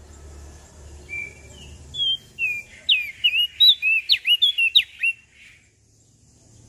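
Prenjak daun songbird singing a fast phrase of sharp chirps and short whistled notes. It starts about a second in, comes quickest in the middle and stops a second before the end, over a faint low hum.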